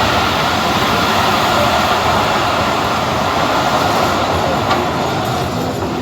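Passenger train running along the track, heard from inside a carriage as a steady, loud rumble and rattle of the wheels and coach. There is one short knock about five seconds in.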